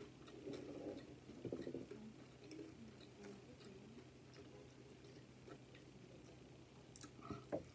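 Faint close-up chewing of pancake and bacon, with small scattered mouth clicks over a low steady hum.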